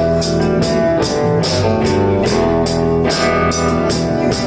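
Live blues-rock band playing an instrumental passage between vocal lines: guitars over bass and a drum kit keeping a steady beat.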